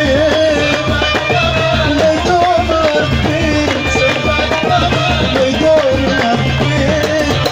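Saharan Algerian folk music: hand drums keeping a dense, steady beat under a wavering, ornamented melody line.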